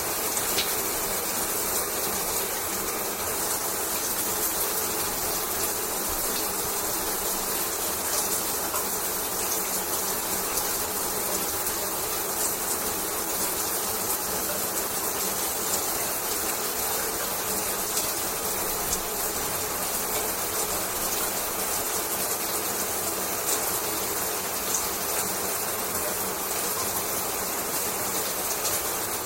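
A shower running steadily: a continuous hiss of spraying water with scattered faint ticks of drops.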